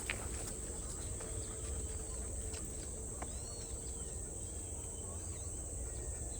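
Outdoor ambience: a steady, high-pitched insect chorus, with a low rumble underneath and a few short bird chirps.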